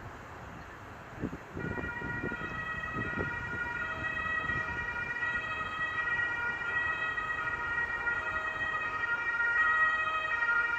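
A train whistle sounding one long blast with several steady pitches together, starting after a couple of low knocks about a second and a half in.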